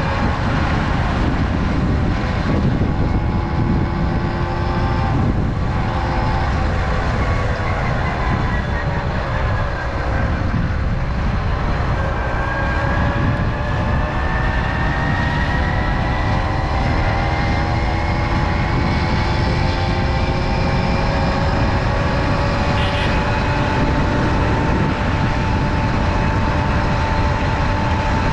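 Tomos two-stroke moped engine running under way. Its pitch drops to a low point about ten seconds in, as when easing off, then climbs steadily for the rest of the time as it picks up speed, over a constant low rumble of wind and road noise.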